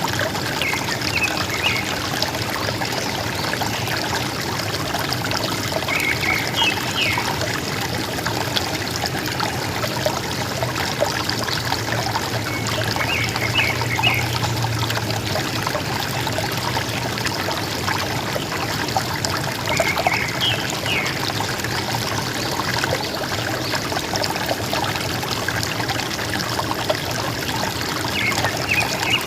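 River water trickling and gurgling steadily, with a bird giving a short call of a few quick notes roughly every seven seconds.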